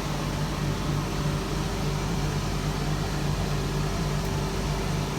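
IKE heat pump dryer running: a steady machine hum from its compressor and air-circulation fans, with a few constant low tones under an even rush of air.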